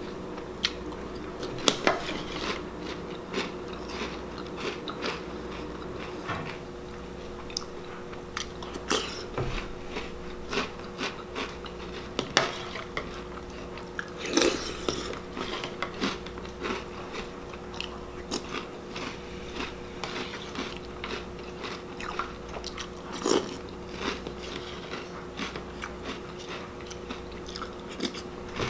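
Close-up crunching and chewing of a mouthful of Reese's Puffs cereal in milk, with sharp clicks of a metal spoon in a plastic bowl between bites, over a steady low hum.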